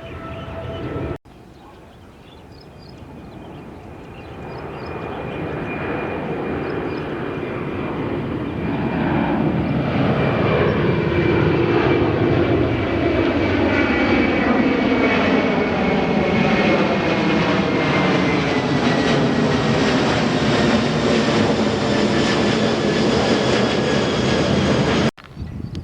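A jet airliner's engines during takeoff, building over several seconds to a loud, steady level. A whine and engine tones fall slowly in pitch as the aircraft passes. The sound starts and stops abruptly at edits, about a second in and near the end.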